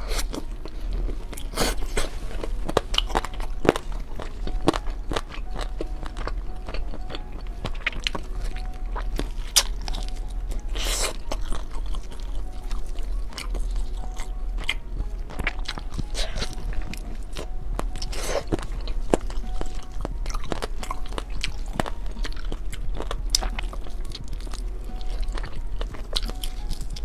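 Close-miked biting and chewing of crunchy food, with many sharp, irregular crunches.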